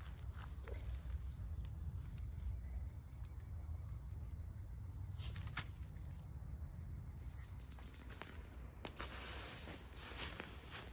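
Outdoor ambience with a faint steady insect trill, a low rumble of wind on the microphone and a few scattered sharp clicks. A louder high hiss of rustling comes in near the end.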